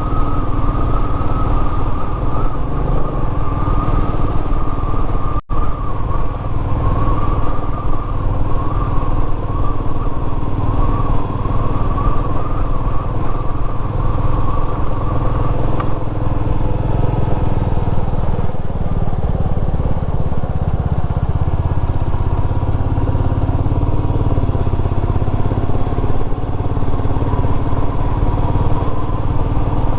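Royal Enfield Meteor 350's single-cylinder engine running steadily under way on the road, with a wavering whine over it for the first half. The sound drops out for an instant about five seconds in.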